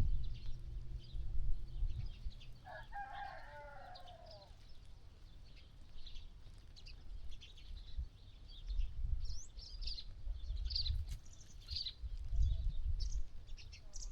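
A rooster crows once, a wavering call of about two seconds, beginning roughly three seconds in, while small birds chirp repeatedly in short high notes. Low rumbling bumps come and go underneath.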